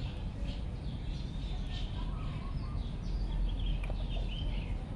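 Small birds chirping on and off in short high calls over a steady low rumble.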